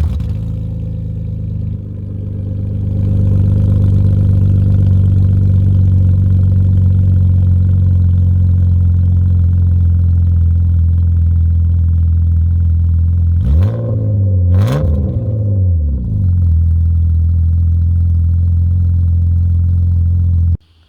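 BMW E36 328i's inline-six engine idling loud and deep through a straight pipe after the catalytic converters, with the muffler removed. There are two quick revs a little past the middle, and the sound cuts off suddenly near the end.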